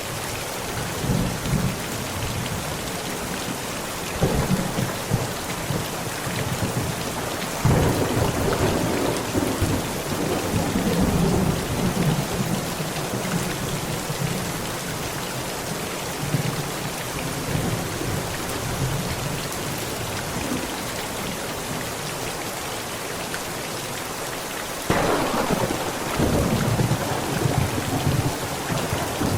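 Heavy rain falling steadily on a tent, with thunder. Small rumbles come in the first few seconds. A sharp clap about eight seconds in rolls on for several seconds, and another sudden one starts near the end.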